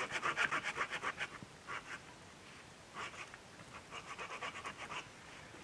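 Quick back-and-forth strokes of a small hand saw cutting wood, about six a second, with a knot in the piece. The strokes run steadily for the first second, then come in shorter, quieter runs with pauses between.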